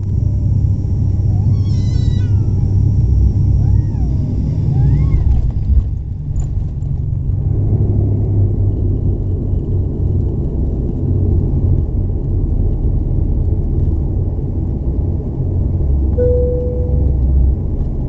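Steady low rumble of an ATR 72-500's twin turboprop engines heard inside the cabin. In the first five seconds a few short, high, wavering squeals rise and fall over it, and a brief steady tone sounds near the end.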